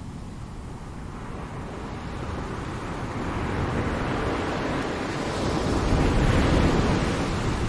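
Ocean surf: one wave's rush of water builds over several seconds, is loudest about three-quarters of the way through, then starts to ebb.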